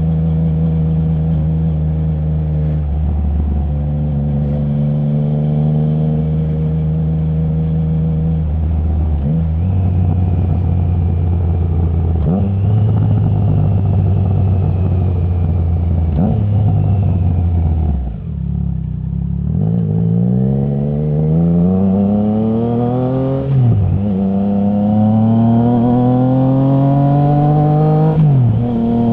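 Triumph Trident 660's inline three-cylinder engine through a baffle-less Zard full exhaust, heard from the rider: cruising with a few changes in pitch, shutting off briefly at about the midpoint, then accelerating hard. The pitch climbs and drops sharply twice on quickshifter upshifts.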